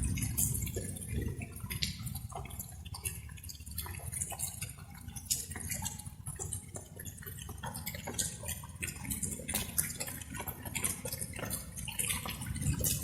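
Raindrops dripping: many separate drops ticking at an irregular pace, some closer and sharper than others, over a steady low rumble.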